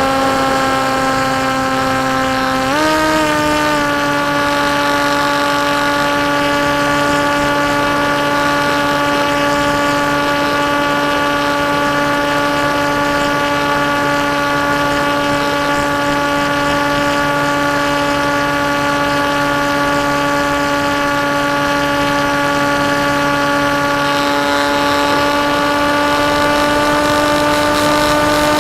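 Electric motor and propeller of a KT Wing flying-wing model plane in flight, a steady whine that steps up in pitch about three seconds in as the throttle goes up, then holds, rising slightly near the end.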